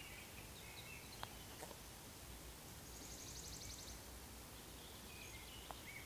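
Faint forest birdsong: scattered short high chirps, and about three seconds in a rapid high trill lasting about a second, over a steady hiss. A few faint clicks.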